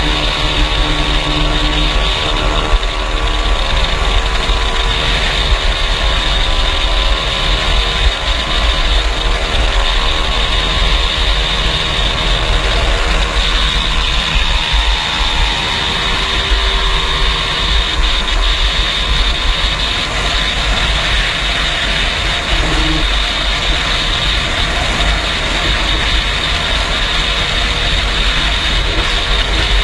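Engines running steadily with a constant low rumble and loud hiss.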